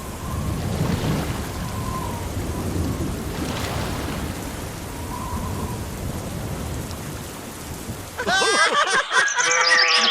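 A steady low rumbling noise, then from about eight seconds in high-pitched squeaky voices chattering.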